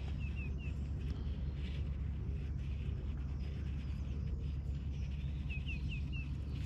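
A small bird calling outdoors: a quick run of three high chirps near the start and four more about five and a half seconds in, over a steady low rumble.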